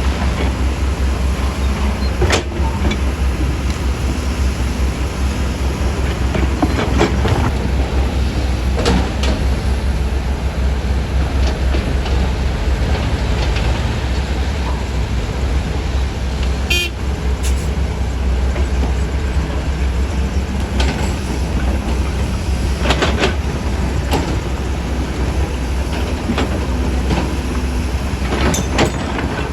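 Heavy diesel earthmoving machinery running steadily with a deep engine rumble, with occasional sharp metallic knocks and a brief high-pitched toot or squeal about two-thirds of the way through.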